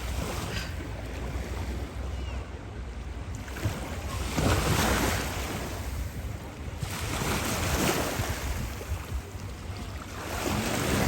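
Wind rushing over the microphone along with splashing, surging sea water, with a steady low rumble underneath. It swells louder twice, once near the middle and once a couple of seconds later.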